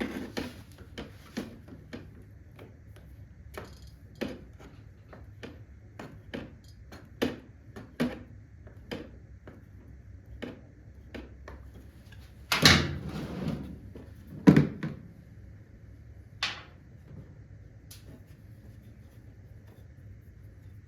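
Irregular sharp clicks and clanks of hand tools working a motorcycle's oil filter loose, with two louder clunks about two thirds of the way in.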